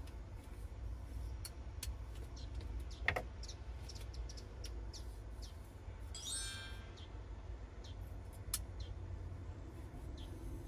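Birds chirping in short high calls over a steady low rumble, with a single light knock about three seconds in.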